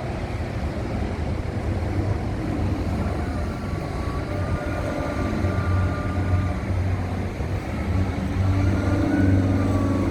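Aircraft engine noise at an air show: a steady low drone with a faint whine that wavers in pitch, growing a little louder near the end.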